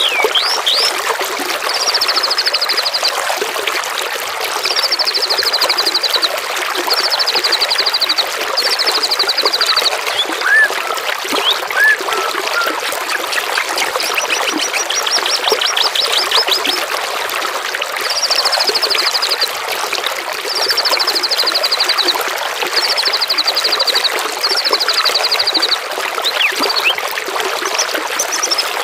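Running water trickling steadily under a songbird's high, rapid trills, each about a second long and repeated every two seconds or so, eight in all, with a longer run of separate sweeping notes in the middle and a few short chirps between.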